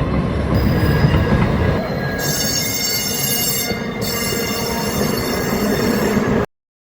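TriMet train running along the track, its wheels squealing in several high steady tones over a rumble, the squeal loudest from about two to four seconds in. The sound cuts off suddenly near the end.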